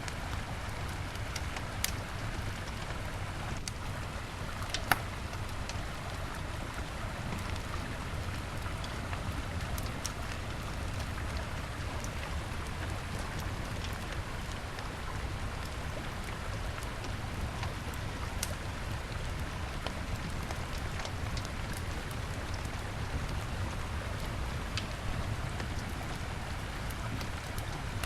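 Wood fire crackling, with a few sharp pops (the loudest about five seconds in), over the steady rushing of a river.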